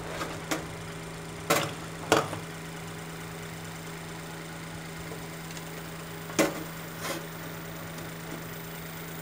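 Microtek home inverter humming steadily on mains power, with several sharp clicks and knocks scattered through it.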